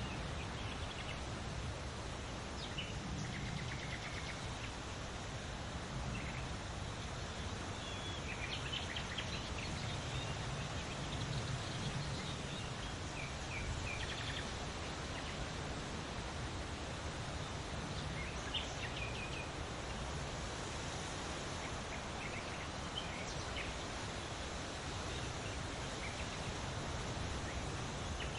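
Small birds chirping and calling in short scattered notes over a steady background hiss of outdoor ambience.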